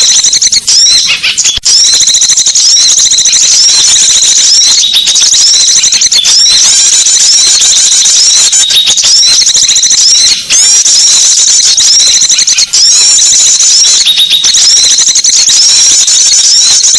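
Bird-lure recording of small songbirds calling: a loud, dense, unbroken stream of high-pitched chirps and trills in short repeating phrases, used to draw small birds in.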